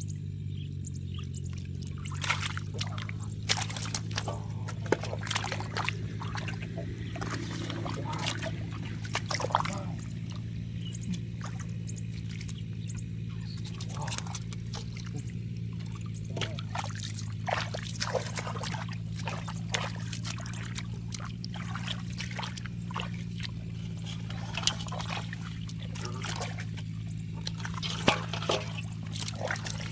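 Shallow muddy water splashing and sloshing in short, irregular bursts as hands work through it to catch fish, over a steady low hum.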